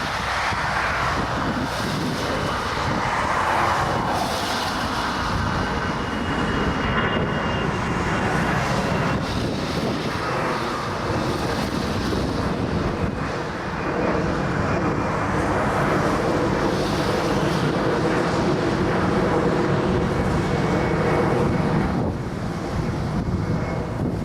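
Twin jet engines of an Airbus A330 running, a steady rush with a faint high whine that slowly falls in pitch.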